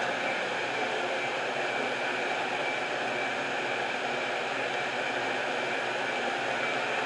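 Metra commuter train standing at the platform: a steady rushing hiss with a faint high whine running through it.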